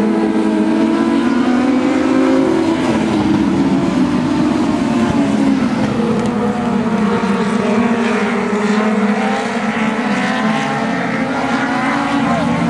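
Field of dwarf race cars running flat out around the track, several motorcycle-derived engines heard at once, their pitches rising and falling and overlapping as the cars go by.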